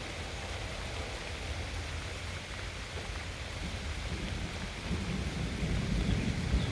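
Steady rain falling, a constant hiss, with a low rumble building up near the end.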